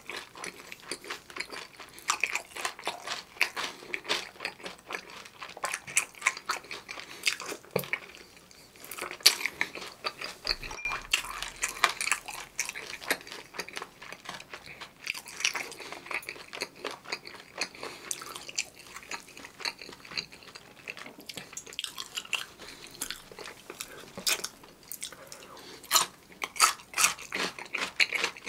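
Close-miked chewing of seasoned, crispy fried chicken: a steady run of small crunches and wet mouth clicks, with louder bites near the end.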